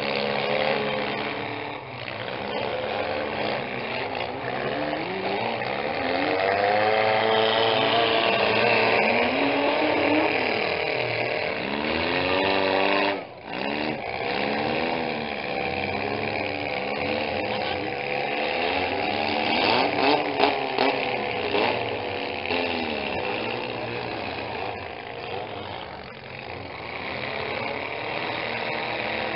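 Several demolition-derby compact cars' engines revving hard, rising and falling in pitch as the cars push and ram each other, with a few sharp crashes of metal about two-thirds of the way through.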